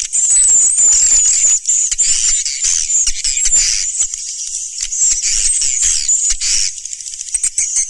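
Swiftlets twittering as a dense flock: many high, shrill chirps and short trills overlap without a break. This is a swiftlet call recording of the kind played to draw the birds into a nesting house.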